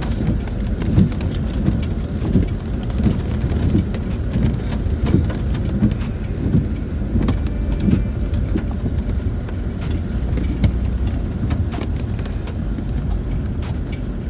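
In-cabin noise of a Land Rover Discovery 4 driving a rough, wet green lane: a steady low rumble from the drivetrain and tyres, with frequent short knocks and clicks as the vehicle jolts over bumps.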